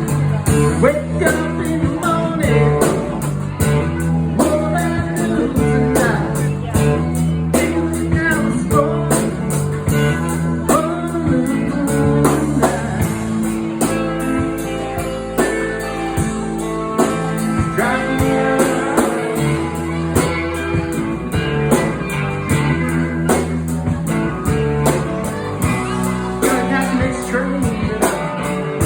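Blues band playing, led by guitar over a steady beat.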